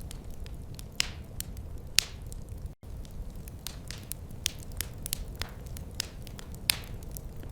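Wood fire crackling in a fireplace: a steady low rumble of burning with sharp irregular pops and snaps, the loudest at about one, two and nearly seven seconds in.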